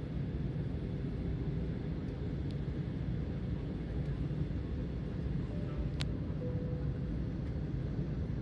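Steady low rumble of a jet airliner's engines and rushing air inside the passenger cabin on final approach, with one sharp click about six seconds in.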